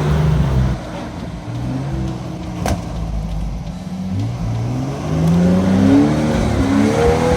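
Nissan GQ Patrol's TB42 petrol straight-six revving under load on a steep climb. The revs dip about a second in, then climb to a peak around six seconds and ease off. One sharp knock almost three seconds in.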